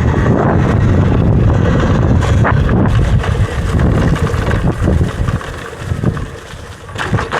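Wind buffeting the microphone while riding an electric dirt bike, a dense low rumble that eases off about six seconds in and picks up again near the end.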